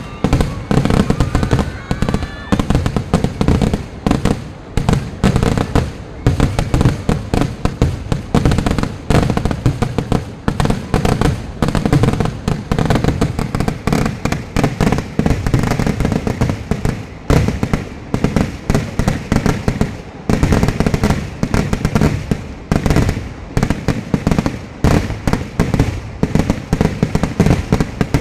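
A dense, continuous barrage of fireworks going off, many sharp bangs a second with no break, easing off right at the end.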